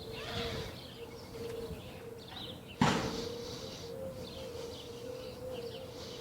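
Small birds chirping in short scattered calls over a faint steady hum, with a single sharp knock about three seconds in.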